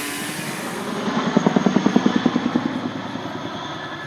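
Helicopter passing, its rotor beating in rapid pulses of about nine a second. The beat swells about a second in and fades away near the end.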